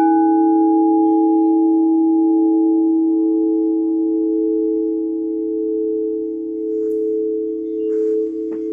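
Singing bowl struck once, then ringing on in a long sustain of several steady tones with a slow waver.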